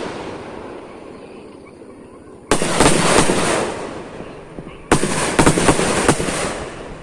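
Firecrackers going off in two volleys of sharp cracks and bangs, one about two and a half seconds in and another about five seconds in, each fading out over a second or so.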